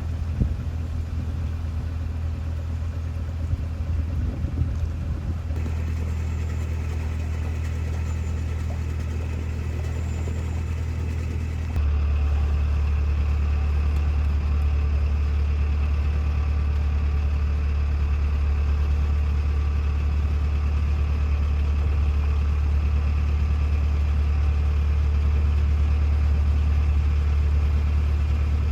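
Narrowboat's diesel engine running steadily under way, a low even hum that steps up louder about twelve seconds in.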